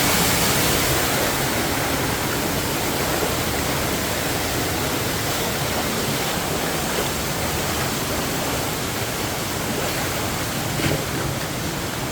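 Stream water rushing over rocks: a steady, even rush.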